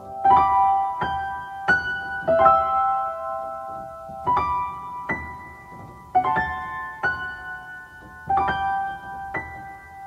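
Solo piano playing a slow, gentle instrumental passage: single notes and chords struck roughly once a second, each left to ring and fade.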